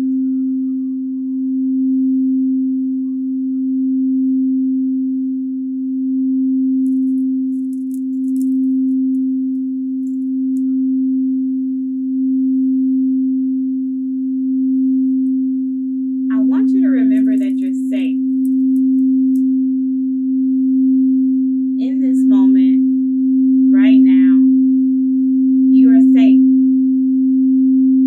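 Root chakra singing bowl sounding one steady, sustained tone that swells and fades in a slow pulse. In the second half, four short, higher, wavering sounds come over it.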